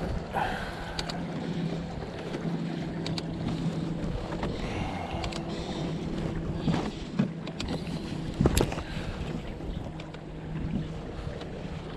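Kayak out on the water, with wind on the microphone and a faint low steady hum. A few sharp knocks come through, the loudest about eight and a half seconds in.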